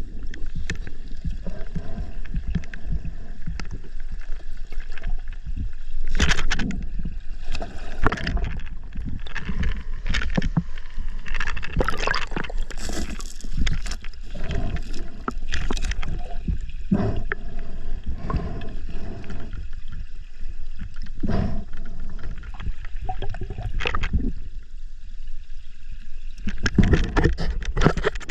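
River water sloshing and gurgling right at the camera, broken by many irregular splashes and bumps.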